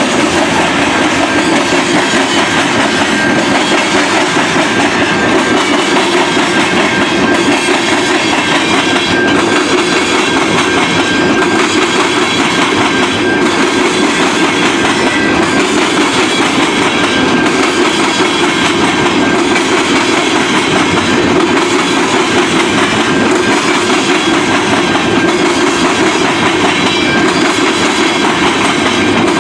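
A train's cars rolling steadily past at close range, wheels clacking over the rail joints.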